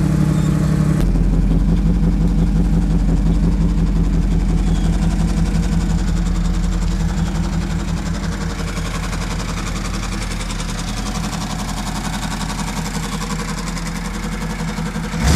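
Pontiac Trans Am's V8 idling steadily after a cold start, its rumble slowly getting quieter.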